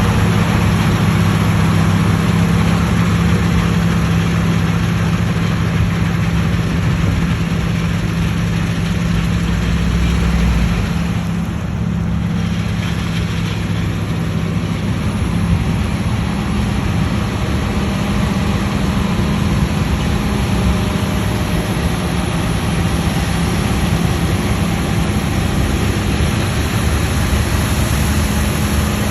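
Claas Lexion 770 combine harvester running steadily, a constant engine and machinery hum with a brief dip in level about eleven seconds in.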